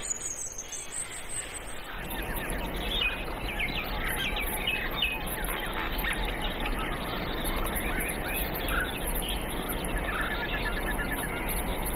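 Birds chirping and twittering over a steady background hiss and low hum, with a quick trill of repeated notes near the end.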